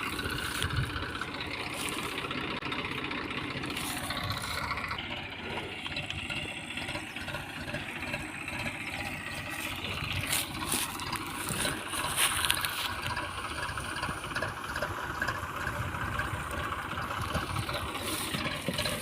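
Eicher 333 tractor's diesel engine running steadily, with a few clunks about ten to thirteen seconds in.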